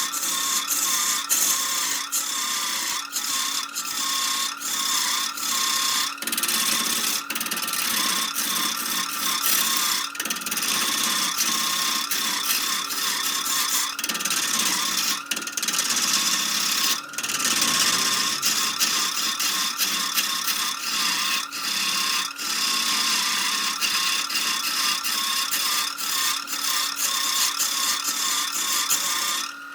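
Wood lathe running while a turning tool cuts the spinning wood: a continuous scraping hiss over a wavering motor whine, with frequent small knocks.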